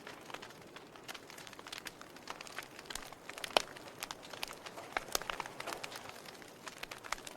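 Logs burning in a fireplace, crackling with irregular sharp pops over a soft hiss; the loudest pop comes about halfway through.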